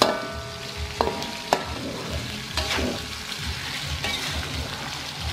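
Pieces of beef liver and spice paste sizzling in a wok while a metal spatula stirs them, the spatula knocking against the wok several times with short metallic rings.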